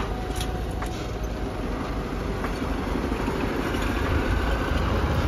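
Motorboat engine running steadily, growing gradually louder as the boat gets under way.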